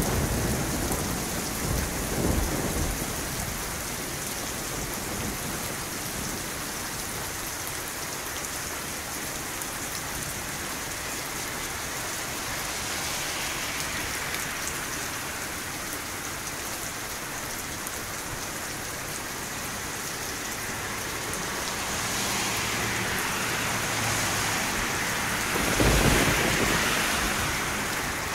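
Steady rain falling, with low rolls of thunder in the first couple of seconds and again a few seconds before the end.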